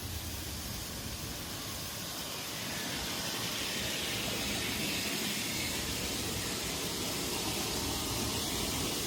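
Steady hiss of spraying water, a little louder about three seconds in.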